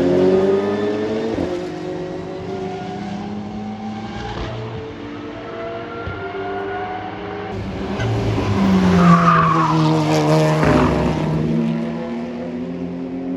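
Racing cars going past on a circuit, their engines rising and falling in pitch as they pass. The loudest pass comes about eight seconds in, its engine pitch falling as it goes by.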